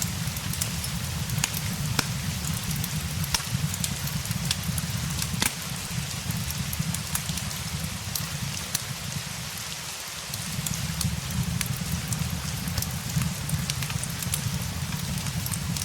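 Steady rain with a low rumble underneath, mixed with the frequent sharp pops and crackles of a burning fireplace.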